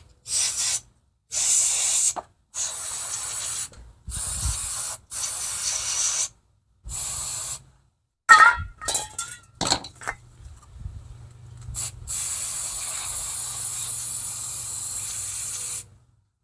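Aerosol cleaner sprayed onto gunked-up carburetor parts: about seven short hissing bursts, then a few clicks and a brief squeak, then one long spray of about four seconds near the end.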